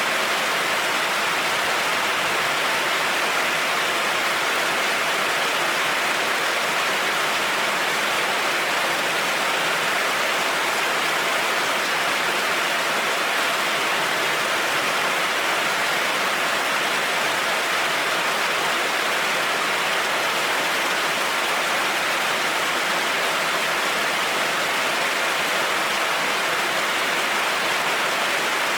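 Heavy rain falling steadily on a road, an even hiss that does not change, with no thunder.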